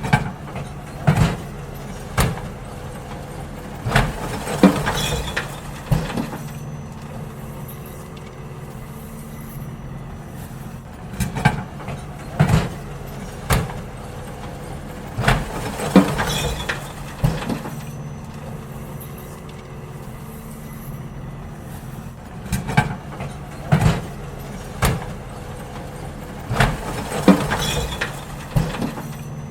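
Garbage truck engine running steadily under a stream of loud knocks and bangs as wheelie bins are lifted, shaken out and set back down. The clatter comes in groups roughly every ten seconds.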